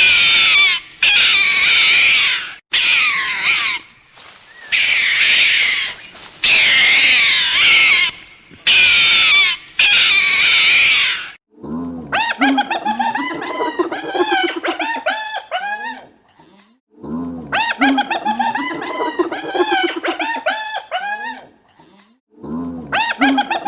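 An animal's high-pitched calls, repeated about once a second with a wavering pitch. Then, about halfway through, a rooster crows three times in long drawn-out calls, the last one still going at the end.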